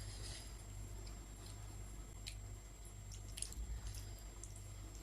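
A person chewing soft, wet food close to the microphone, with faint scattered mouth clicks.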